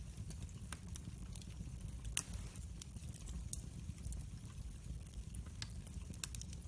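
Wood fire burning with a steady low rumble and frequent crackles and pops, the loudest pop about two seconds in.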